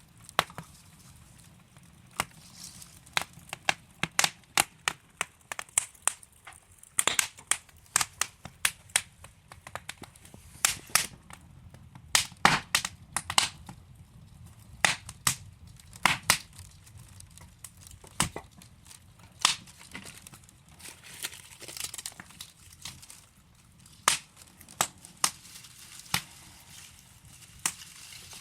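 Wood fire crackling: irregular sharp pops and snaps from burning logs over a low, steady rushing of the flames.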